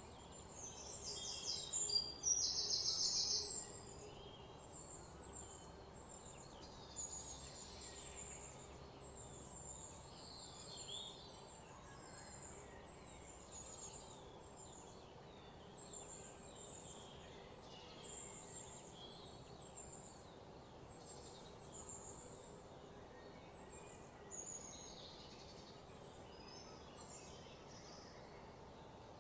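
Small birds chirping in short, scattered high calls over faint steady outdoor background noise, with a louder rapid trill for a couple of seconds near the start.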